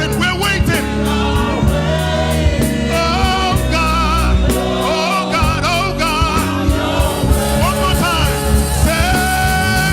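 Church choir singing gospel music, with drums keeping a steady beat and a bass line underneath.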